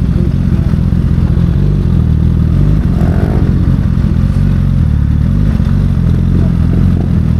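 Honda CBR sport bike's engine running steadily at low revs, a continuous low drone heard from the rider's seat.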